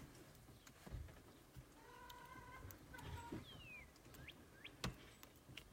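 Near silence broken by a few faint, short animal calls: a held note about two seconds in, then a quick falling chirp and two short rising chirps.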